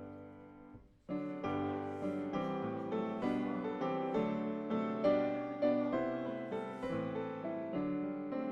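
Piano playing a slow hymn tune in full chords. A held chord fades out, there is a short break about a second in, and then chords are struck in a steady rhythm, about two a second.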